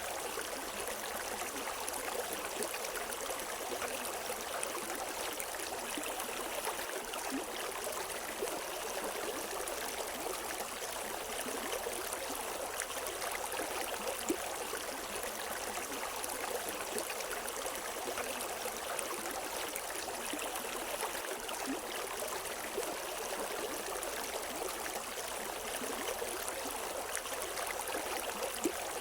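River water flowing over rocks: a steady rushing and splashing with fine gurgles and trickles throughout, no birdsong.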